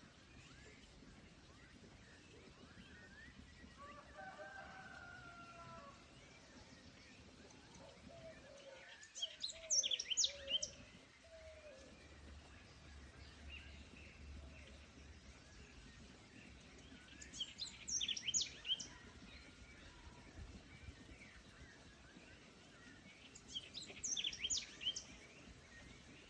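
Forest birdsong: a songbird sings a short, rapid, high phrase three times, about every seven seconds, and lower drawn-out calls sound earlier, over faint steady forest background.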